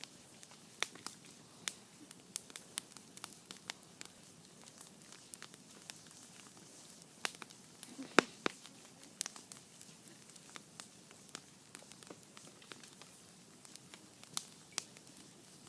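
Wood campfire crackling: irregular sharp pops and snaps over a faint steady hiss, with the loudest pop about eight seconds in.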